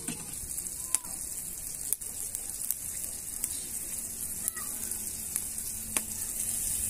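Tomato-and-onion masala sizzling steadily in a black karahi over a wood fire, with a few sharp clicks now and then.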